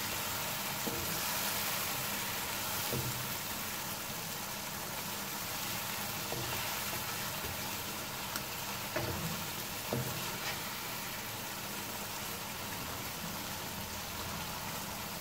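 Marinated chicken pieces sizzling steadily in oil and spice paste in a wok, stirred with a wooden spatula that knocks against the pan now and then.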